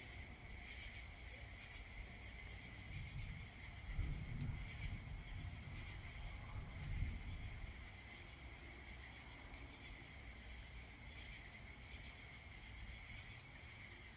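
Steady, unbroken chorus of insects such as crickets, a continuous high shrill. A low rumble swells under it from about three seconds in, peaking twice before fading.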